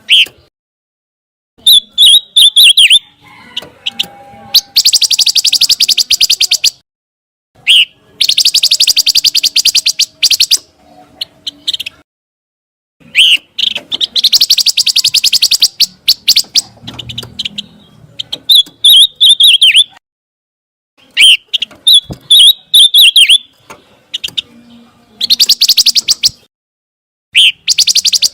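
Pancawarna songbird singing in repeated phrases. Short, sharp, wavering high chirps alternate with long, fast, dry trills of about two seconds each, with brief silences between them.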